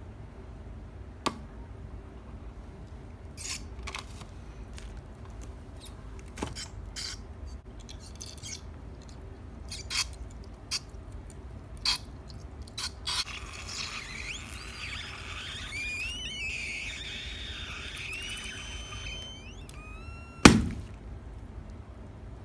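Scattered small clicks and taps, then several seconds of rubbery squeaks that slide up and down in pitch, and near the end a single loud pop: a balloon burst with a pin.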